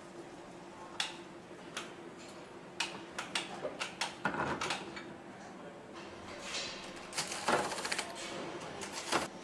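Metal engine parts and hand tools clicking and clinking as they are handled during hand assembly of an AMG V8 engine, with a quick rattling run of clicks a little after seven seconds, over a steady factory hum.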